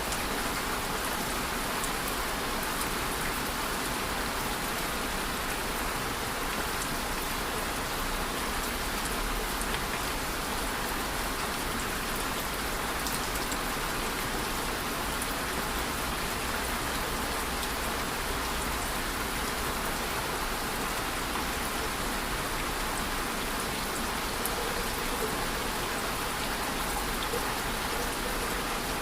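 Steady rain falling on a surface, with a constant hiss and fine patter of drops.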